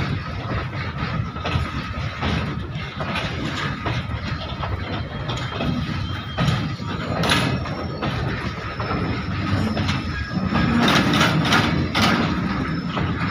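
Open steel wagons of a coal goods train rolling past close by: a steady rumble and clatter of wheels on rail, with sharp metallic clanks about seven seconds in and again near the end, where it grows louder.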